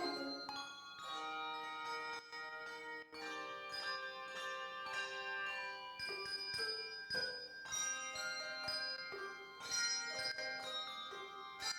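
Handbell choir playing a piece: many bells struck together in chords and left ringing, with new notes overlapping as they die away.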